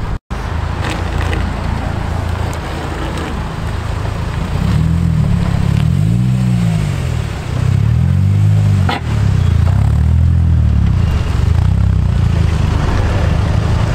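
Car engines revving as modified cars drive off a car meet. The engine note climbs and falls back twice around the middle.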